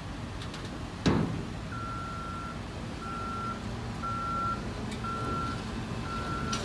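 A heavy vehicle's reversing alarm beeping about once a second, each beep about half a second long at one steady pitch, over a low engine rumble. A loud thump comes about a second in, just before the beeping starts.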